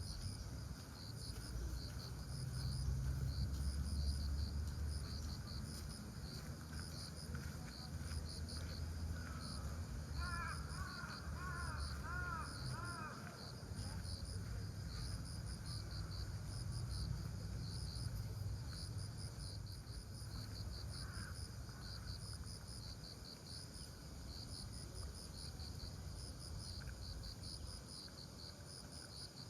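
Crickets chirping: high, short chirps repeating in a steady rhythm over a low rumble. A brief run of arching call notes comes in about a third of the way through.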